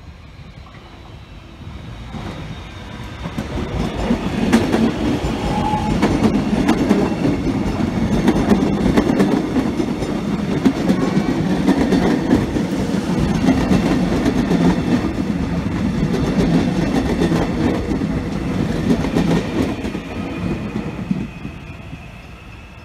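X'Trapolis 100 electric suburban train approaching and passing close by, its wheels clicking over the rail joints. It builds over the first few seconds, stays loud for most of the pass, then fades near the end as the train moves away.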